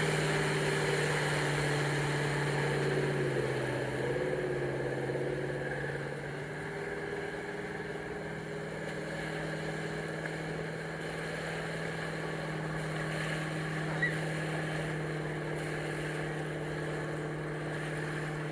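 Motorboat engine running as it tows water skiers across the lake, its pitch dipping and rising again about three to four seconds in, then growing quieter.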